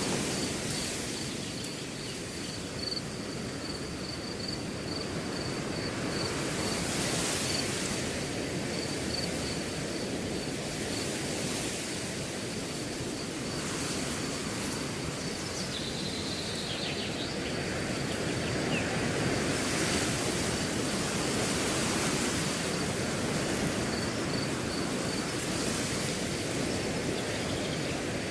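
Wind blowing steadily through a grass field, a continuous rustling hiss that swells and eases a little, with a cricket chirping in a high, evenly repeating pulse over it.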